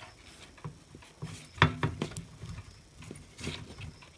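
Small clicks and knocks of the plastic parts of a Lukey 852D+ hot air gun handpiece being handled during reassembly, the loudest about one and a half seconds in.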